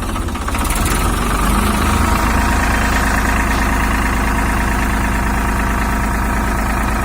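Farmtrac 60 tractor's diesel engine running, rising a little in revs about a second and a half in, then holding steady.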